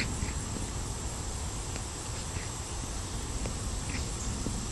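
Night insects, crickets, trilling steadily in a high chorus over a low background rumble, with a few faint clicks.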